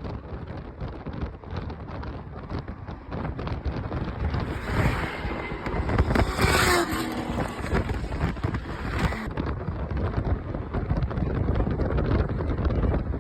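High-horsepower roll-race cars running, with heavy wind noise on the microphone; the sound grows louder about four seconds in.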